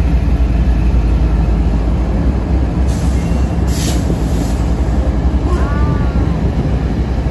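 Norfolk Southern freight train's diesel locomotives passing close by: a loud, steady deep engine rumble with rolling wheel noise on the rails. A burst of hiss comes through about three to four seconds in, and a short falling squeal-like tone about five and a half seconds in.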